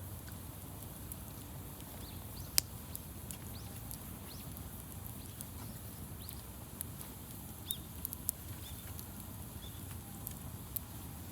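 Wood campfire crackling: scattered sharp snaps and pops over a low steady rumble, with one loud pop about two and a half seconds in.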